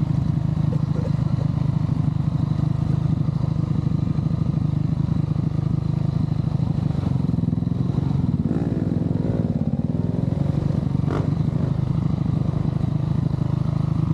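Motor vehicle engine running steadily with a low drone. For a couple of seconds in the middle, a higher wavering whine rises and falls over it, and there is one sharp knock near the end.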